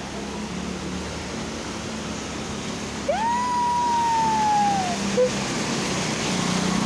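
A siren-like tone sweeps up about three seconds in, then holds for about two seconds while sinking slowly before it stops, followed by a short chirp. Under it runs a low engine hum.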